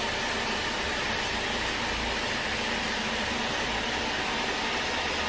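Sawmill machinery running steadily: a constant even noise with a low hum underneath.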